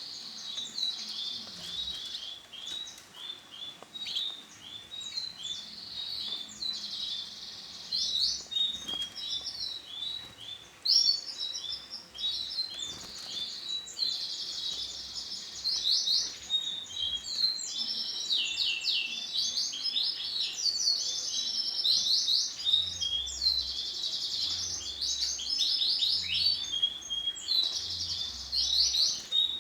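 Domestic canary chirping and singing: rapid, high-pitched trills and twittering phrases that follow one another almost without a pause.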